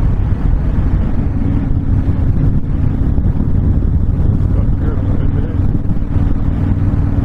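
Honda VTX1300 V-twin engine running steadily under way, with wind noise over the microphone.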